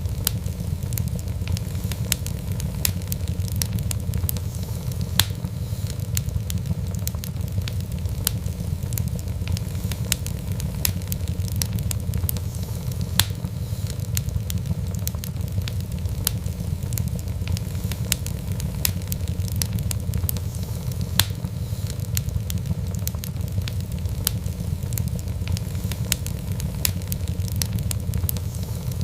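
Wood fire burning, a steady low rumble of flames with frequent sharp, irregular crackles and pops, a few of them louder.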